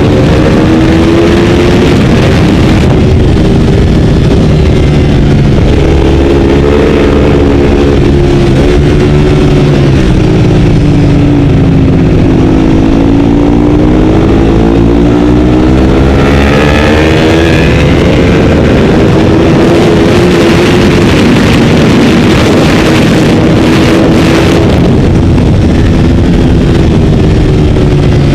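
Ducati 848's L-twin engine heard from onboard at track speed, loud and continuous over a steady rush of wind. The engine note falls as the bike slows, then climbs again as it accelerates hard.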